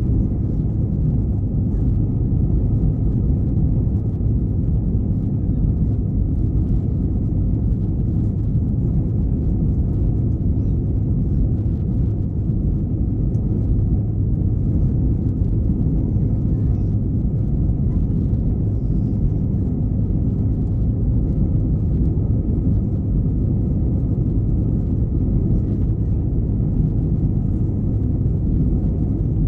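Steady low rumble of an Airbus A321-211's CFM56 jet engines and airflow, heard inside the passenger cabin in flight, with a faint steady whine above it.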